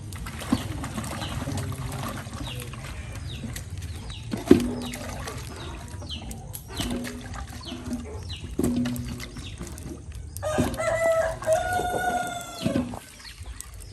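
A rooster crowing once, a long call about ten and a half seconds in, with short bird chirps scattered before it. A sharp knock about four and a half seconds in is the loudest sound.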